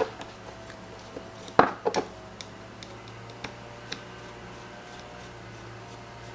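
Small metal parts and tools clicking and tapping on a workbench as a small-engine carburetor is taken apart and handled. There are a few louder knocks about a second and a half in, with scattered lighter ticks over a steady low hum.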